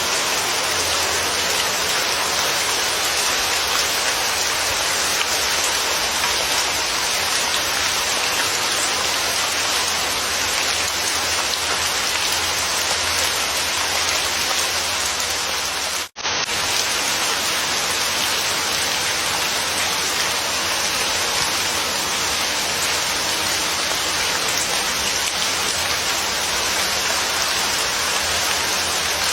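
Steady, heavy rain falling, an even hiss of drops. It cuts out for an instant a little past halfway, then resumes unchanged.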